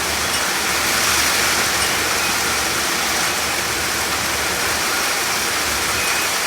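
Heavy monsoon rain pouring down, a steady, loud hiss with no let-up.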